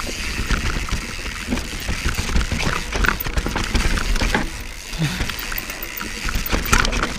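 Mountain bike descending a steep dirt trail, heard from a bike-mounted action camera: tyres rumbling over the ground with frequent clicks and knocks from the chain and frame, and wind buffeting the microphone.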